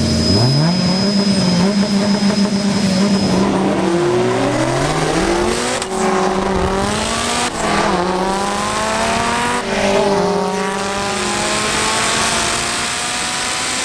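Drag-racing cars at full throttle: engines held high for a few seconds, then accelerating hard, the pitch climbing and dropping several times as they shift up through the gears.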